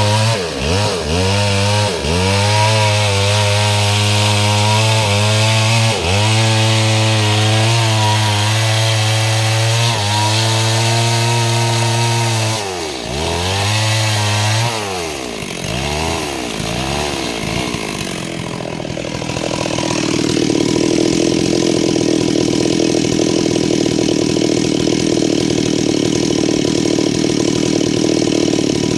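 STIHL MS 382 two-stroke chainsaw with a 30-inch bar ripping lengthwise through mahogany, its engine running at high revs under load, with the pitch dipping briefly several times as the chain bites. Around two-thirds of the way through, the engine note falls away and an even, steady running sound carries on.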